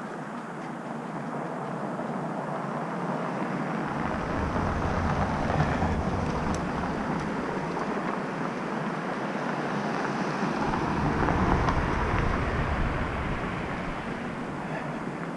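Steady street traffic noise that swells twice, each time with a deep rumble, as vehicles pass.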